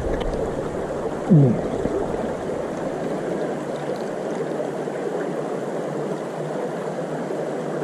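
Steady rush of a small river's flowing water. About a second and a half in, a brief vocal sound from a person.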